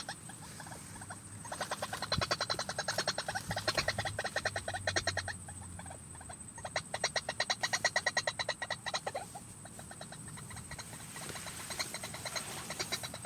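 White-breasted waterhen calling: rapid runs of harsh repeated pulses in bursts of a few seconds, three bursts with short pauses between.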